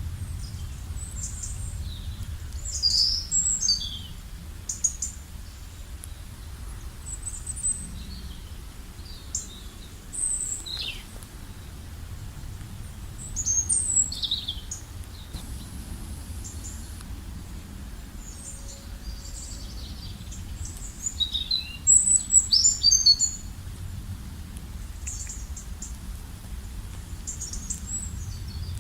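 Wild birds chirping and singing, with short high calls and quick falling trills coming in loose clusters; the loudest flurries come about three seconds in, around fourteen seconds and around twenty-two seconds. A steady low rumble runs underneath.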